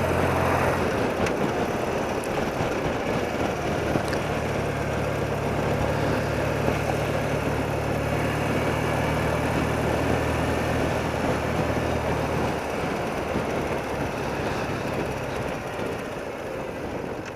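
30-year-old BMW motorcycle's engine running steadily under way, with rushing wind and road noise. The engine hum fades out about twelve seconds in and the noise eases off near the end.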